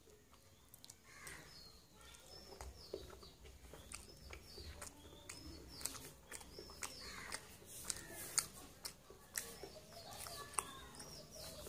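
Close-up wet chewing and mouth clicks from a person eating soft fried bread and curry by hand, with small birds chirping over and over in the background.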